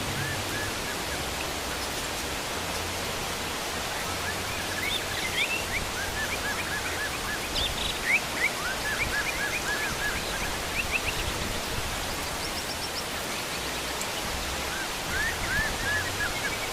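Heavy rain falling steadily. Over it, wild birds call in runs of short, quick chirps, first through the middle and again near the end.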